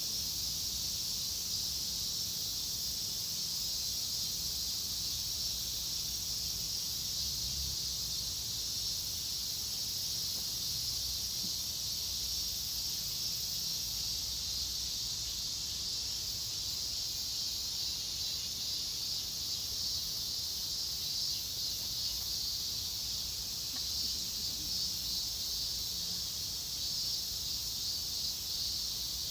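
Steady chorus of summer insects, a continuous high shrill that does not let up, over a faint low rumble.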